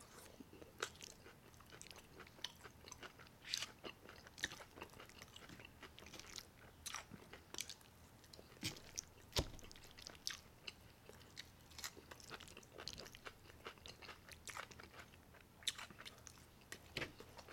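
Close-miked chewing of forkfuls of a Chipotle burrito bowl: wet mouth clicks and smacks, irregular and quiet, with one sharper click a little past halfway.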